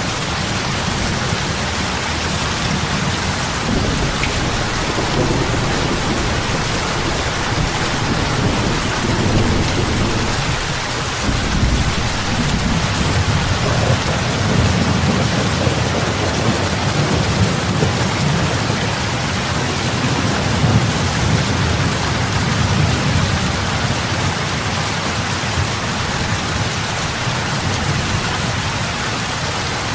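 Heavy rain falling steadily on lake water, big drops splashing, with a low, uneven rumble underneath.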